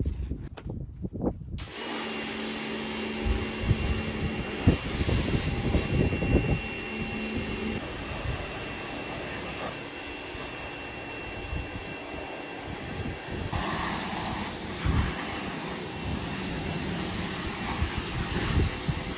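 High-pressure water spray from a pressure washer hissing steadily on the car, starting suddenly about two seconds in.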